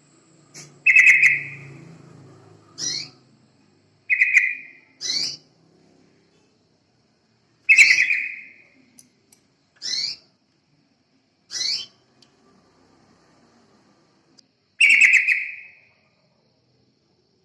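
Yellow-vented bulbul calling: about eight short, loud chirping notes, some rising quickly at the end, repeated at irregular gaps of one to four seconds.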